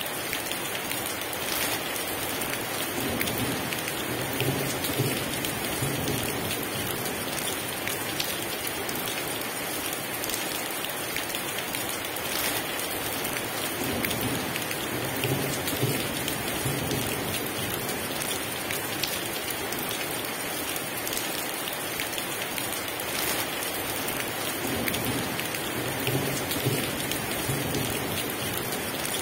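Heavy rain pouring steadily, pattering on a surface, with three low rolls of thunder rumbling under it.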